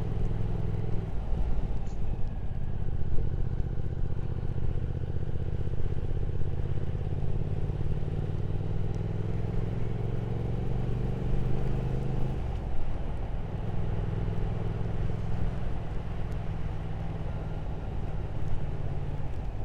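Triumph Speed Twin 1200's parallel-twin engine running at road speed, with a hiss of wind over it. The engine note changes about a second in and again about twelve seconds in, and climbs slowly in between.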